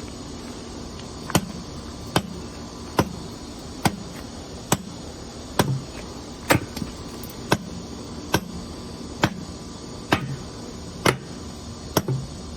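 A steady series of sharp knocks, about one a second and about thirteen in all, some followed by a short low thud: repeated blows from a hand tool during concrete work on a gate foundation.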